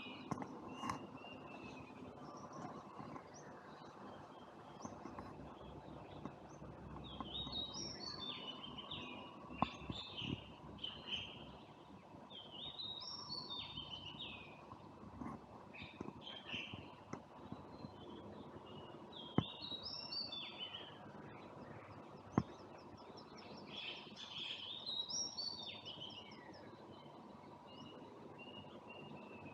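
A songbird singing bouts of short, quick warbling phrases with pauses of a few seconds between them, over the steady hum of a neighbour's air conditioner. There are a few sharp clicks.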